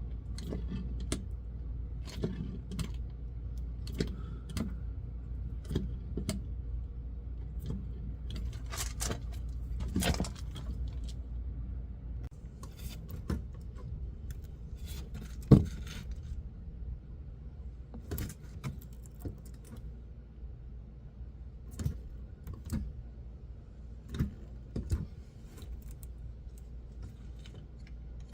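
Metal hand tools clinking and clicking irregularly during work on a truck's differentials, with one much louder metallic knock about halfway through, over a steady low hum.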